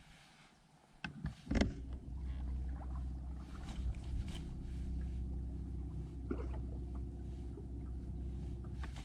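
Boat motor running steadily with a low hum, starting after a knock about a second and a half in.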